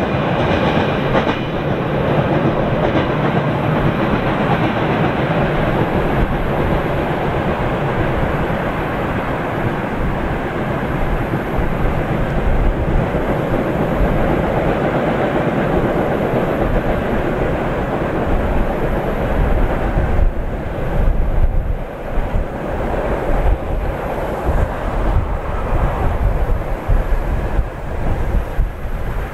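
Freight train of rail tank cars rolling away along the track: a steady rumble of wheels on rails with clattering over the rail joints. The higher clatter thins out over the last third as the tail of the train recedes, leaving a duller low rumble.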